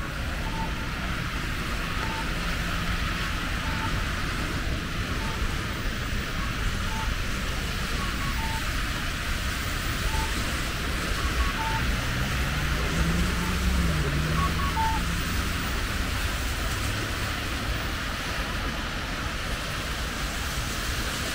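Steady rain hiss over low city traffic rumble. A vehicle passes about twelve seconds in, its engine note rising and falling, and faint short beeps repeat roughly once a second.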